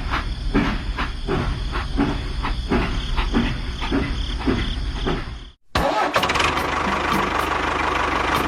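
Small homemade engine running slowly and unevenly, a heavy beat about three times a second. It cuts off abruptly more than halfway through, and a denser, faster-running mechanical noise follows.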